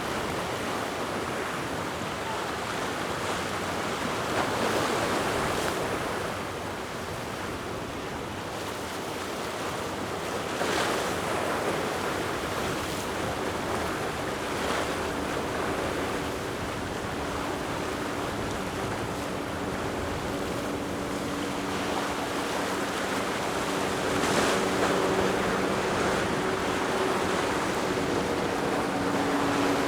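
Waves breaking and surging in rough water, with wind buffeting the microphone. About halfway through, the steady drone of a boat engine comes in underneath and grows louder near the end.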